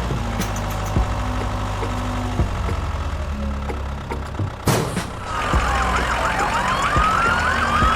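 A vehicle engine hums steadily. A click comes just before five seconds in, and then overlapping siren wails rise and fall over it.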